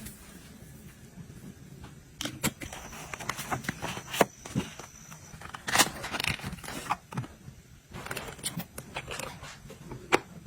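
Items being handled and set down while organizing: scattered taps, clicks and light knocks with some rustling. The sharpest knocks come about four and six seconds in.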